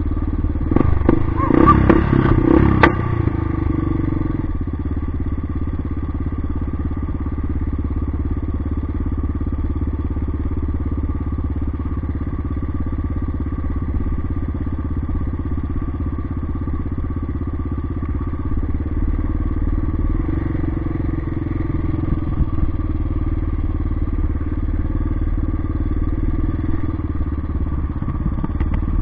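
Yamaha XT 600's single-cylinder four-stroke engine running steadily as the bike rides along a rough dirt track. Between about half a second and three seconds in there is a short burst of louder sharp knocks or calls.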